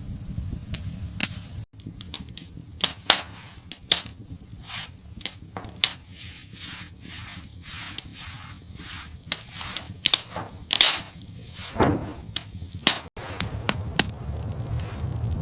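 Irregular sharp cracks and knocks, roughly one or two a second, some with a short ringing tail, over a low rumbling background that is louder near the start and end.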